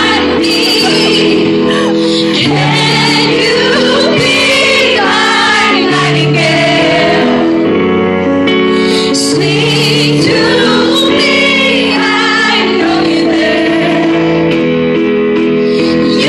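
Live music: a woman singing a slow ballad over long held accompaniment chords.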